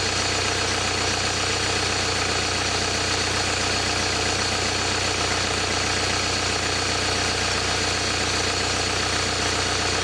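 The rally Kia's turbocharged engine idling steadily, at operating temperature, during a warm-up run that tests a freshly refilled cooling system and replacement radiator; the thermostat has not yet opened.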